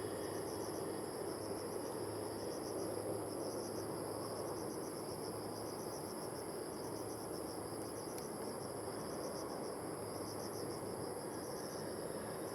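Insects chirping in short pulsed trills that repeat in groups about once a second, over a steady low background rumble.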